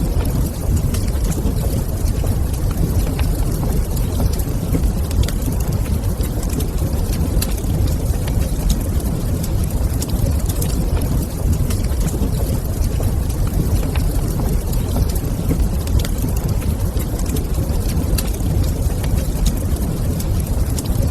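Wood fire crackling in a fireplace: scattered sharp pops and snaps, several a second at irregular spacing, over a steady low rumble.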